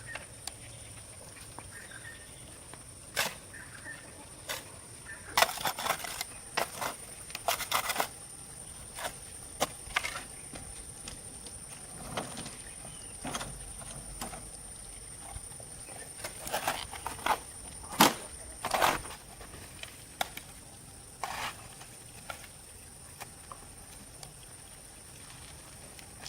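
Irregular sharp knocks and clicks, bunched in two clusters, over a faint steady hiss with a thin high whine.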